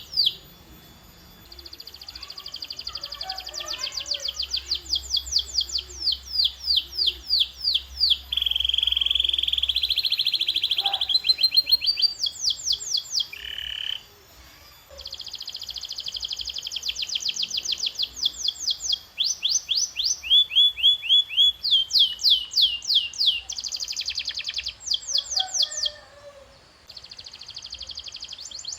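Domestic canary singing: fast trills of repeated chirps, switching from one trill to another every few seconds, with a held, rolling note about a third of the way through.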